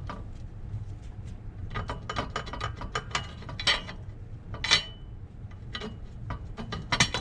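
Hand work on a vintage car's front brake backing plate assembly: runs of quick metallic clicks, with a few sharper metal clinks about halfway through and again near the end.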